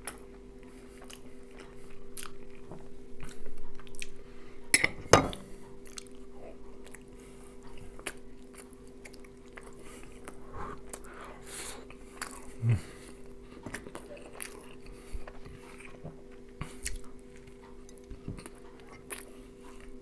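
Close-miked eating sounds: chewing, lip smacks and small wet clicks as baked hake is eaten and picked apart, over a steady low hum. A few louder sharp knocks about five seconds in, like a fork against the pan or plate.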